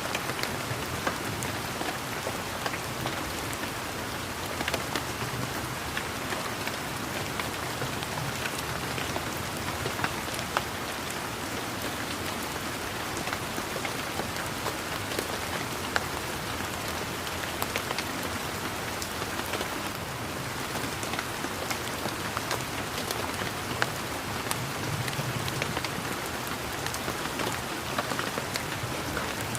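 Steady rain falling on garden leaves and ground, an even hiss with many individual drops pattering close by.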